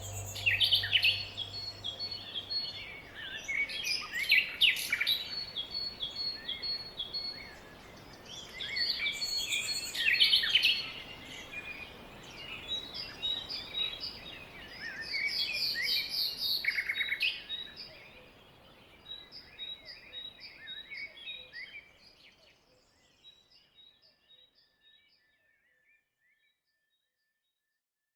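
Songbirds chirping and singing, many short calls and trills over a faint steady hiss, thinning out and fading away near the end.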